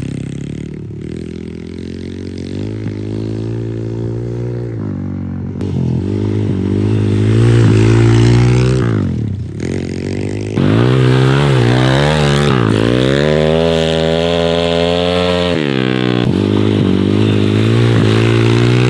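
Small single-cylinder four-stroke pitbike engine (MRF 140 TTR) revving up and down repeatedly as the bike is ridden and slid around a dirt track. Its pitch climbs and drops with each burst of throttle, and the sound jumps abruptly about five and ten seconds in.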